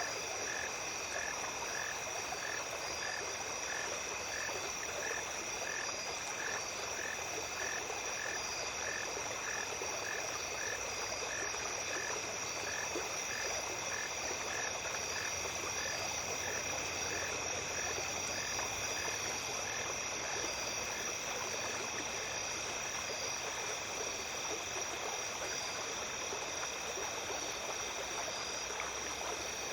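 Night chorus of insects trilling steadily over a running stream, with a short call repeated about twice a second that fades out in the last several seconds.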